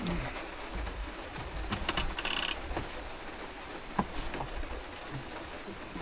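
Small clicks and knocks from kitchen things being handled, with a short rattling burst about two seconds in and a sharp tap near four seconds.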